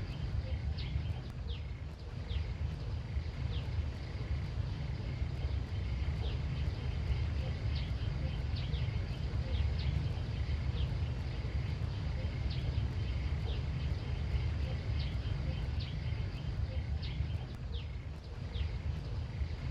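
Outdoor country ambience: short, high chirps, each falling in pitch, repeating roughly once a second over a steady low rumble, typical of a small bird calling.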